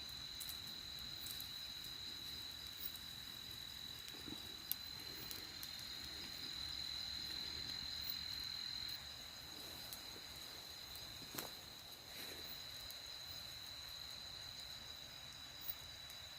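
Crickets trilling in a steady, unbroken high-pitched drone, with a few faint sharp clicks scattered through it, the clearest about eleven seconds in.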